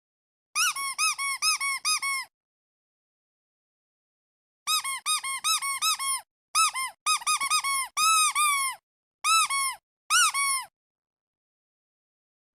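Squeaky duck toy being squeezed repeatedly, giving short high squeaks that each rise and fall in pitch. They come in quick runs: about seven squeaks, a pause of about two seconds, then several more runs that slow to single squeaks near the end.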